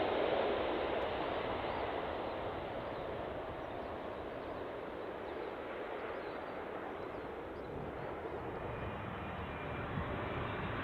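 Jet airliner on final approach, its engine noise fading away after it passes, then the next approaching airliner growing louder near the end with a faint engine whine coming in.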